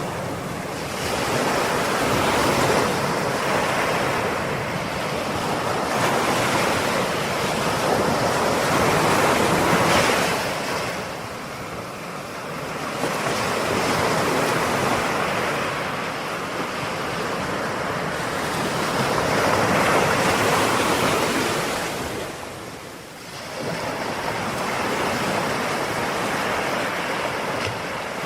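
Ocean waves breaking and washing on the shore in a continuous rush of surf, swelling and ebbing every several seconds, with a clear lull about twenty-three seconds in.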